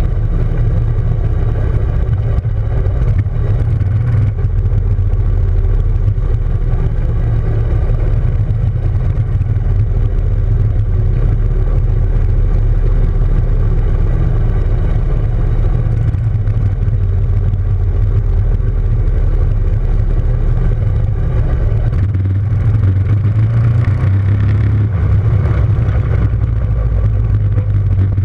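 Small motorcycle engine running at a fairly steady speed, loud and constant with no clear revving.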